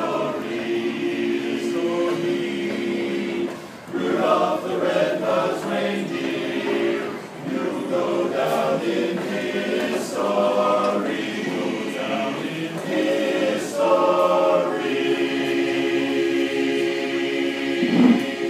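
A choir singing a cappella, several voices holding long notes together, with short breaks between phrases.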